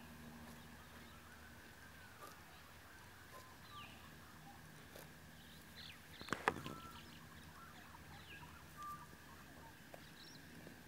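Quiet outdoor ambience of birds calling, short falling chirps every couple of seconds over a faint steady hum. A brief, louder burst of clicks comes about six seconds in.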